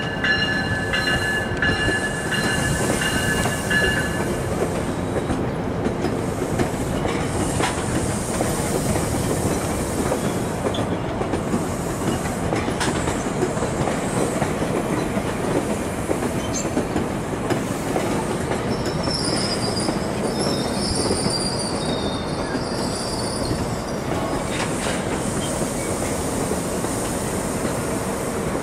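GO Transit bilevel passenger coaches rolling past: a steady rumble of steel wheels on rail with occasional clicks over joints and switches. High wheel squeal rings out in the first few seconds and again about two-thirds of the way through.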